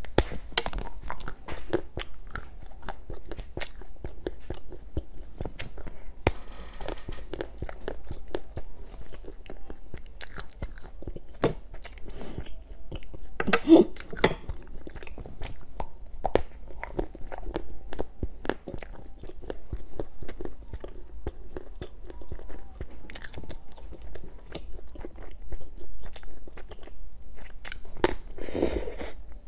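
Close-miked biting and crunching of hard, brittle comb- and hand-mirror-shaped treats, with chewing between the cracks. Dense crunches run throughout, loudest about halfway and again near the end.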